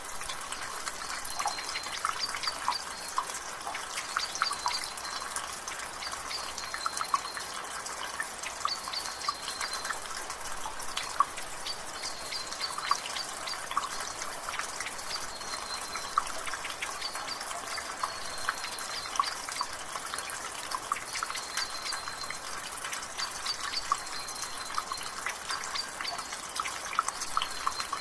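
Water dripping from a rain gutter, many irregular drips over a steady hiss of light rain. A bird's short high chirps recur every second or two in the background.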